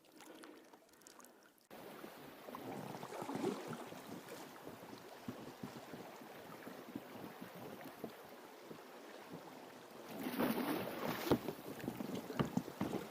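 River water lapping and knocking irregularly against a small boat, with small clicks and handling knocks. It starts suddenly about two seconds in and swells louder about ten seconds in.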